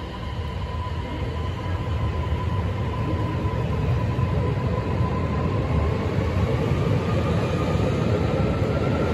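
Train at the platform getting under way: a low rumbling run that grows steadily louder, with a faint whine slowly rising in pitch.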